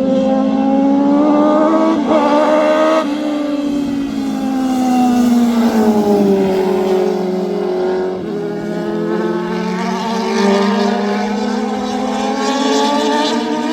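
High-revving race engine of a vehicle lapping a track, running continuously. Its pitch climbs, drops sharply about three seconds in at a gear change, sags, then climbs again from about eight seconds in.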